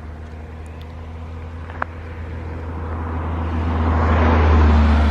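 Road vehicle noise: a steady low rumble with a rushing haze that swells to a peak near the end and then starts to ease off, like a vehicle passing by or accelerating.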